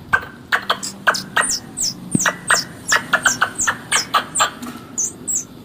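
Small birds chirping: a quick series of short, high chirps, each sliding down in pitch, about three a second.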